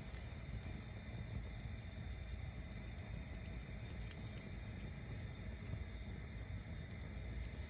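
Tower-stacked bonfire burning: a steady low rush of flame with scattered small crackles and pops from the wood.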